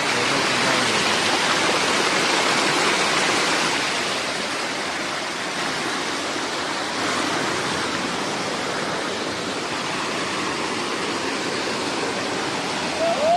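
Waterfall, water rushing and splashing in a steady, unbroken roar.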